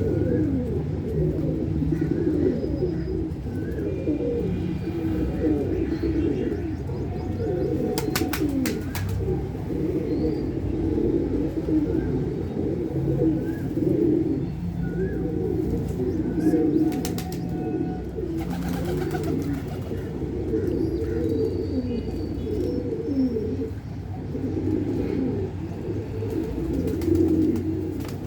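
A flock of pigeons cooing together in a steady, overlapping chorus, with faint higher chirps from small birds. Brief sharp clatters come about eight seconds in and again near seventeen seconds.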